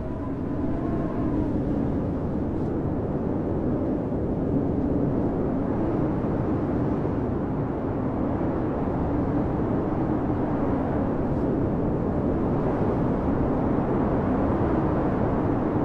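Blizzard wind blowing hard and steadily: a dense rush with a low moaning tone that wavers in pitch. A faint higher whistle wavers briefly near the start.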